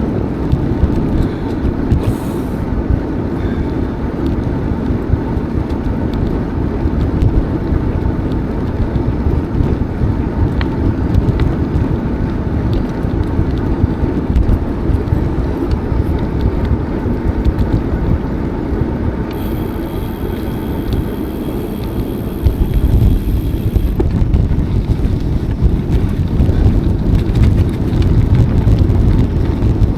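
Wind rushing over the microphone of a moving bicycle: a steady, loud low rumble. A faint high hiss joins for a few seconds past the middle.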